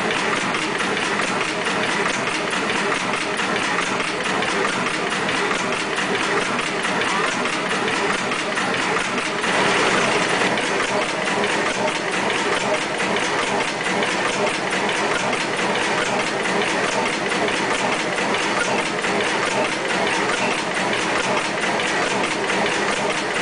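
Slow-turning marine diesel engine of a ship running steadily, a dense mechanical clatter of repeated knocks, briefly a little louder about ten seconds in.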